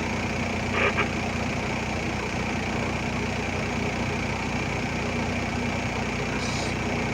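Heavy-equipment diesel engine running steadily at a constant pitch, with a short brief sound about a second in.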